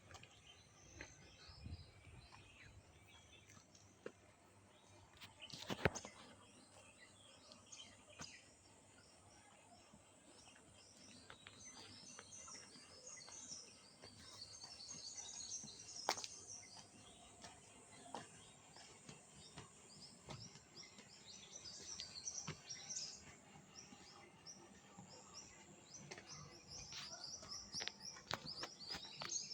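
Faint small birds chirping and twittering, getting busier over the second half, with a couple of sharp clicks, the loudest about six seconds in.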